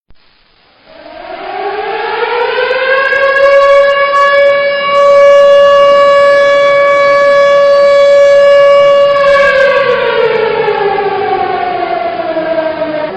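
Warning (danger) siren winding up to a steady wail over about four seconds, holding one pitch, then winding down with a falling pitch near the end.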